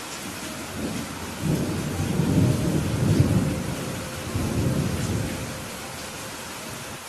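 Steady rain falling, with a low roll of thunder that builds about a second in, peaks in the middle and dies away before the end.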